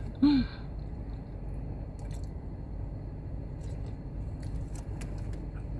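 A person chewing a mouthful of chicken bacon wrap, with faint wet mouth sounds and a few soft clicks, over a steady low hum.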